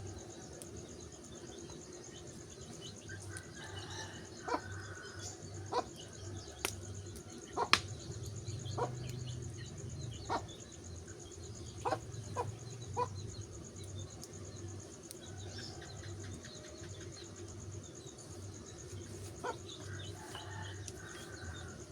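Wood fire crackling with scattered sharp pops, over a steady high insect drone and a few bird chirps.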